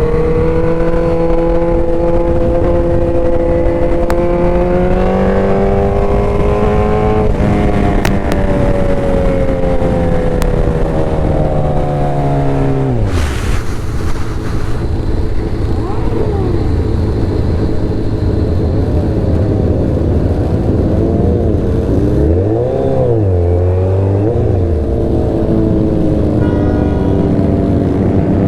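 Motorcycle engine under way. The revs climb, step at a gear change about seven seconds in, climb again and then fall away sharply around twelve seconds. Later the revs swing up and down a couple of times.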